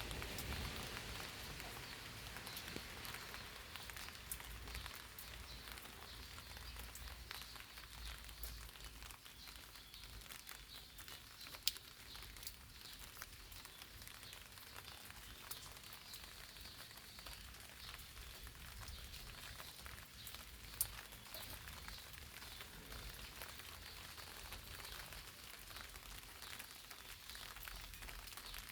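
Rain falling on eggplant leaves: a light, steady patter of many small drop ticks. Two louder single drops stand out, one near the middle and one about two-thirds of the way through.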